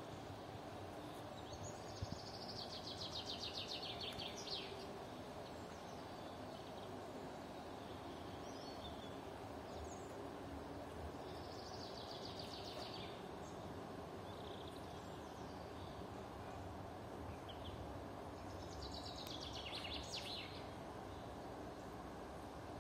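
A songbird singing a rapid, falling trill three times, several seconds apart, over steady low outdoor background noise.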